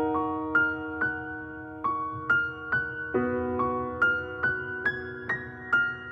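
Slow, soft piano music: a chord rings out, then a melody of single notes, about two a second, each ringing and fading.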